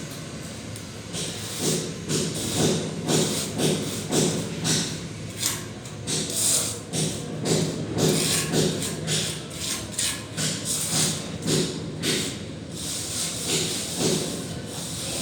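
Plastering trowel scraping and spreading plaster on a wall, in repeated irregular strokes about two to three a second.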